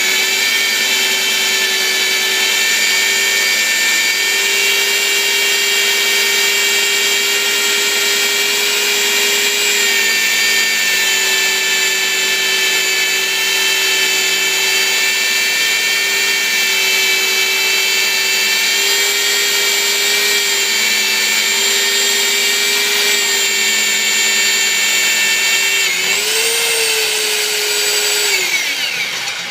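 Electric metal-drilling machine running under load with a steady motor whine. Near the end its pitch rises briefly, then it winds down and stops.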